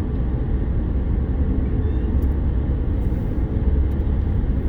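Steady road and wind rumble inside a moving car with the windows down.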